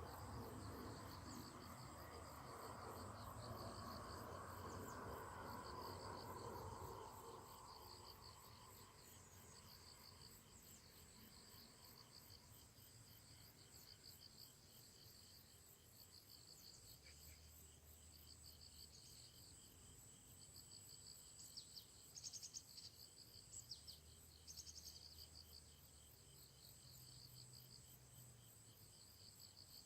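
Faint chorus of insects chirping in a steady, fast pulsing rhythm, with a soft rushing noise that fades out about seven seconds in and a few short bird chirps a little past the middle.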